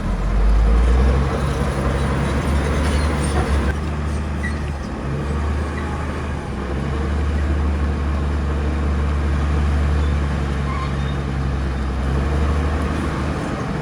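Heavy diesel engine of earthmoving machinery running steadily under load with a deep, low drone.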